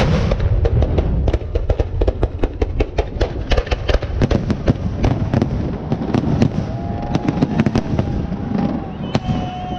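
Aerial fireworks salute: a loud bang at the start, then a rapid run of shell bursts and crackling cracks over a low rumble. A steady high tone joins in for the last few seconds.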